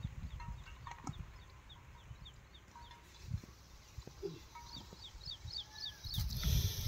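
A bird calling a rapid run of short, high, falling chirps, about three a second, starting past the middle. Under it are scattered low thuds and rustles, and a louder rumble with hiss builds near the end.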